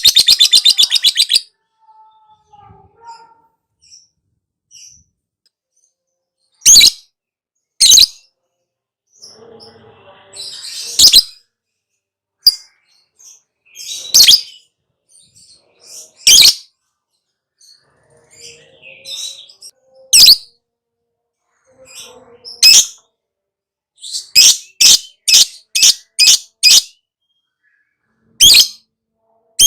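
Lovebird calling. It opens with a fast chattering trill, then gives loud, shrill single calls every few seconds, and near the end a quick run of about seven calls in a row.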